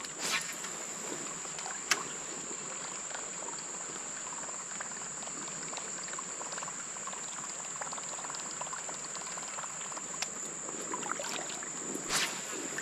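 Creek water trickling and flowing steadily, with a steady high-pitched drone over it and a few small clicks and a short splash-like burst near the end.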